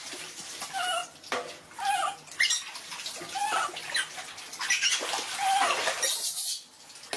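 Water splashing and sloshing while a pet monkey is bathed, with short squeaky calls from the monkey through most of it.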